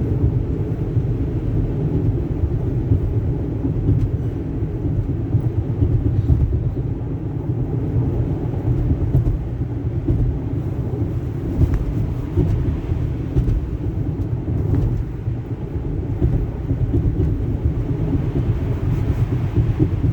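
Car driving on a snowy road: a steady low rumble of engine and road noise.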